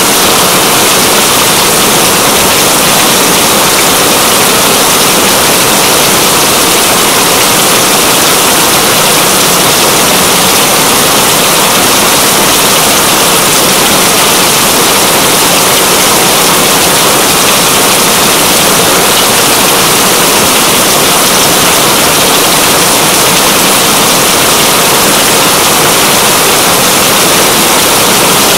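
Loud, steady rain: a dense, even wash of falling drops with no breaks or changes.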